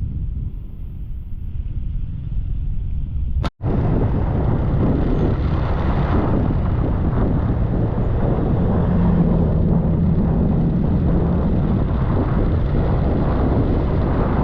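Motor scooter running along a road, its engine hum mixed with wind and road noise on the helmet or handlebar camera's microphone. About three and a half seconds in the sound cuts out for an instant and comes back louder, with a steady engine hum standing out for a few seconds in the middle.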